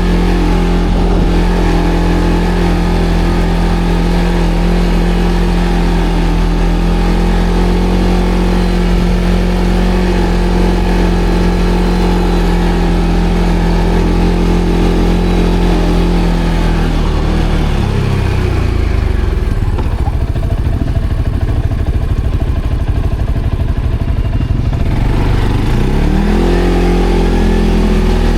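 ATV engine running at steady revs under way, dropping to low revs about two thirds of the way through for several seconds, then revving back up near the end.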